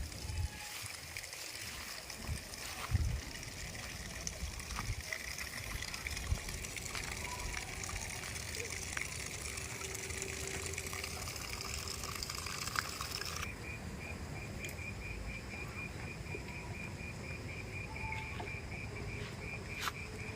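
Steady rush of flowing water with a few small clicks. About two-thirds of the way through it cuts abruptly to a rapid, even, high-pitched insect trill.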